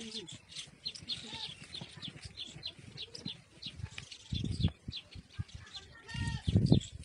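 Small birds chirping over and over, with a pitched call and a couple of low rumbling bursts about four and a half and six and a half seconds in.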